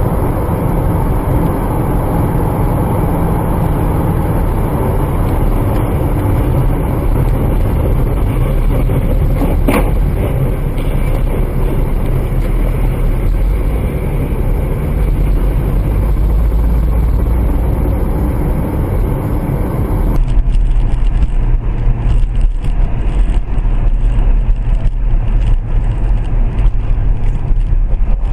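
Steady engine and road noise of a moving vehicle, picked up by a dashcam. About two-thirds of the way through, the sound switches abruptly to a louder, deeper rumble.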